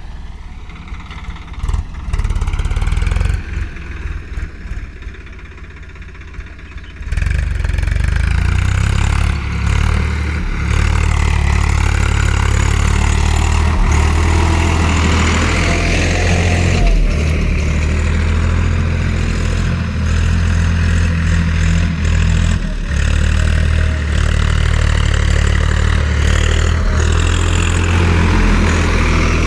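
Swaraj 855 FE tractor's three-cylinder diesel engine, quieter and uneven at first, then from about seven seconds in running loud and steady, working a cultivator.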